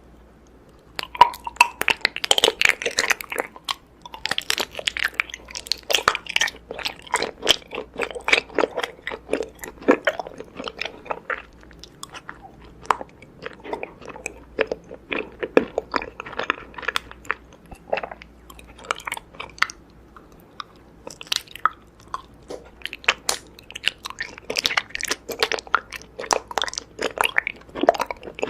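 Raw honeycomb being bitten into and chewed, a dense run of crackling, clicking mouth sounds with a few short pauses.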